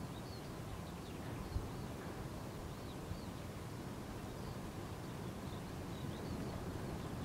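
Steady low outdoor rumble with faint, repeated high chirps of small birds in the distance, and a brief thump about a second and a half in.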